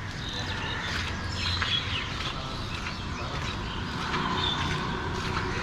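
Street ambience: a steady low hum of traffic under a general noise wash, with a few short high chirps scattered through it.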